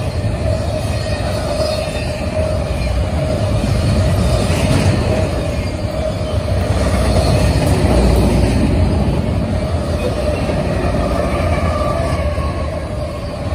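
Double-stack intermodal container train rolling past: a steady rumble of steel wheels on the rails, with a steady squealing tone from the wheels above it, a little louder in the middle.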